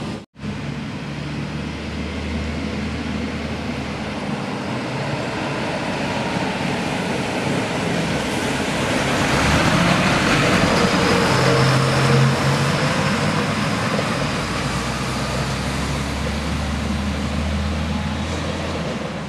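A heavy road vehicle passing by, its engine and tyre noise growing louder to a peak about halfway through and then fading off.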